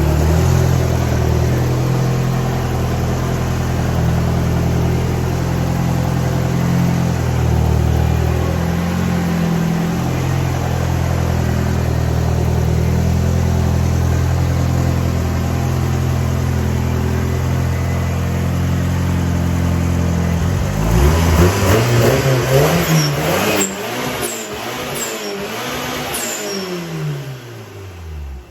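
Car engine running at steady revs, then about 21 seconds in accelerating hard, its pitch climbing and falling several times before it dies away near the end.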